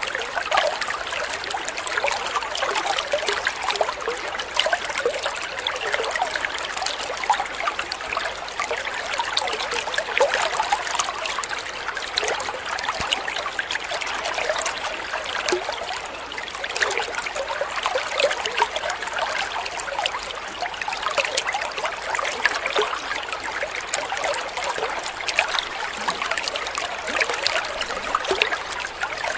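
Shallow running water trickling and babbling steadily, the continuous splashing of a small stream.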